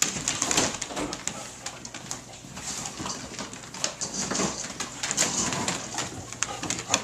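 Dog making soft whining, coo-like vocalizations, eager for food, with scattered light clicks throughout.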